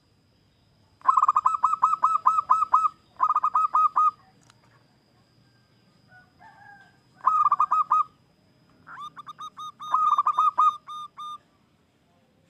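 Zebra dove (perkutut) singing: four bouts of rapid staccato cooing notes, about seven notes a second, each bout one to two seconds long with short pauses between.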